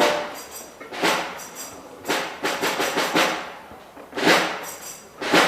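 Concert band percussion playing on its own: sharp strikes with a jingling shimmer, a loud hit about once a second with softer ones in between, each dying away quickly.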